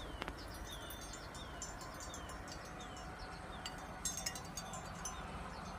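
A bird calling with short, falling high chirps, repeated about every two-thirds of a second and fading out about halfway through, with scattered faint clicks over a low steady rumble.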